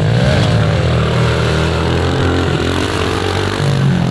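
Pit bike engine running steadily, its revs rising and falling a little with the throttle.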